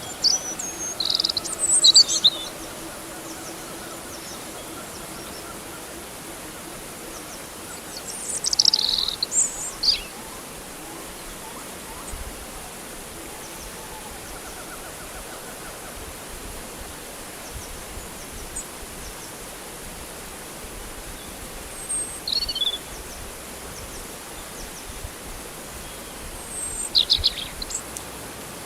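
Birds chirping in four short clusters of high calls, near the start, around a third of the way in, and twice near the end, over a steady background hiss.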